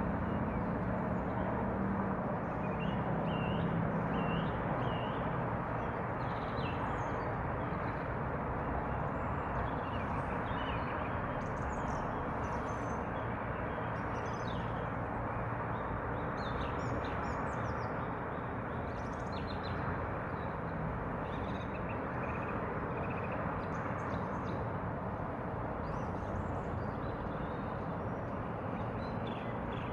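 Small birds chirping, with many short, high calls scattered through, over a steady rushing background noise. A low hum sits under it for the first few seconds.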